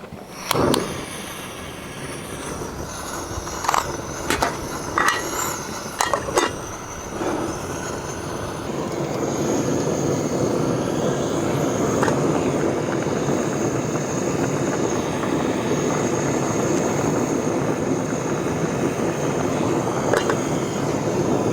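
A few clinks and knocks of cooking things being handled, then a steady rushing sound that swells over a couple of seconds and holds: a camping gas stove heating the pot of samgyetang.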